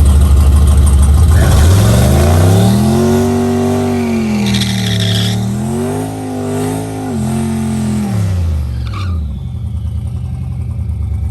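Turbocharged race truck engine accelerating down the strip: the pitch climbs, dips once partway through as it shifts, climbs again, then falls away after about eight seconds, leaving a low rumble.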